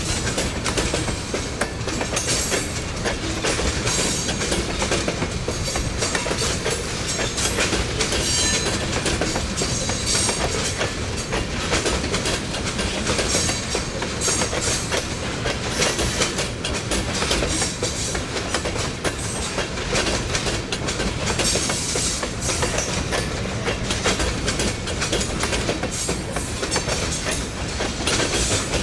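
Train cars rolling past, the wheels clicking steadily over the rail joints.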